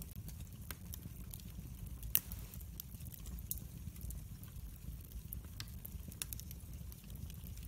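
Wood fire burning in a fireplace: scattered crackles and pops over a steady low rumble of the flames, with one louder pop about two seconds in.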